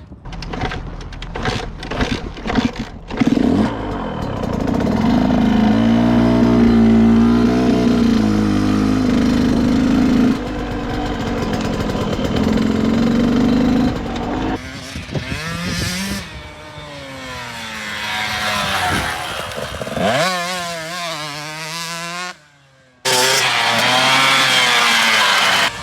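Dirt bike engines revving up and down as they ride, in several short clips joined by abrupt cuts, with a brief drop-out near the end.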